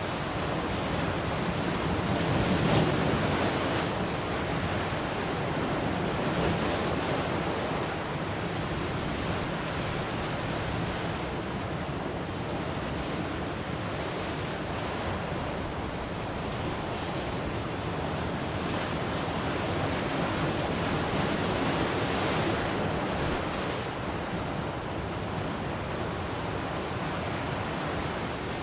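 Ocean surf: waves breaking and washing in a steady roar, swelling louder as bigger waves break about three seconds in and again around twenty-two seconds.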